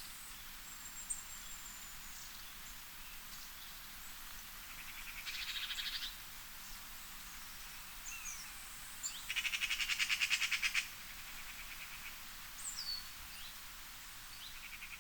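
Forest birds chirping: scattered short calls over a steady hiss. Twice, about five seconds in and again about nine seconds in, a louder rapid trill of about seven or eight pulses a second sounds for one to one and a half seconds.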